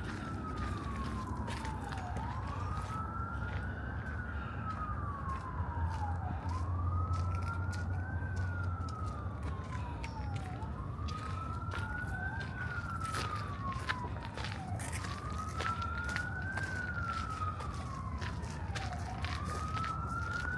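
Emergency vehicle siren wailing, its pitch slowly rising and falling about every four seconds, over a low steady rumble, with footsteps on a path.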